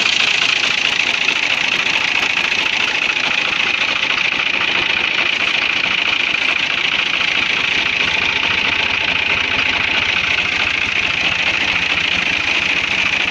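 Fiat 480 tractor's three-cylinder diesel engine running steadily at a low, even speed, its rapid firing rhythm unchanged throughout.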